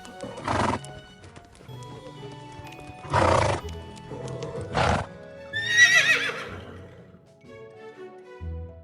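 A horse whinnies once, about six seconds in: a high call with a wavering pitch, about a second long. Before it come three short noisy bursts. Background music plays throughout.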